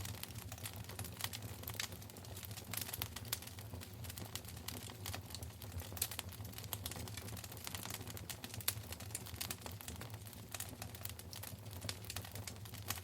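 Fireplace fire crackling: dense, irregular snaps and pops over a low steady rumble, with a sharper pop about six seconds in and another a little before nine seconds.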